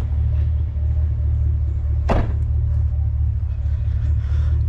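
Steady low rumble of a truck driving, engine and road noise heard from inside the cab, with one short click about two seconds in.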